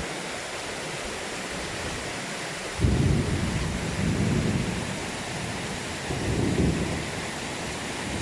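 Heavy rain falling steadily, with a roll of thunder breaking in suddenly about three seconds in and rumbling on in waves.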